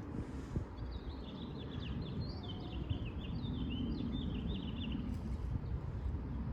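A small bird chattering in a quick run of high chirps for about four seconds, over a steady low rumble of wind on the microphone.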